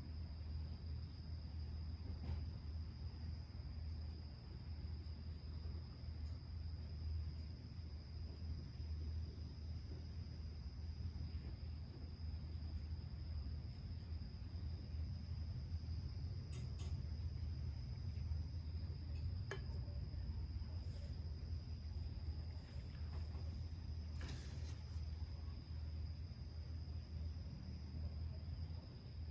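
Insects calling steadily in the evening: a continuous high trill together with a faster pulsing chirp above it, over a steady low rumble, with a few faint ticks.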